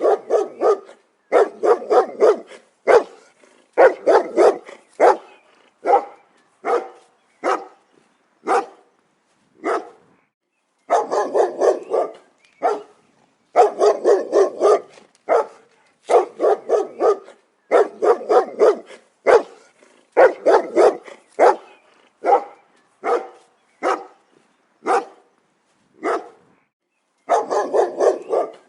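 A dog barking repeatedly, sometimes single barks spaced apart and sometimes quick runs of several barks in a row, with brief pauses between them.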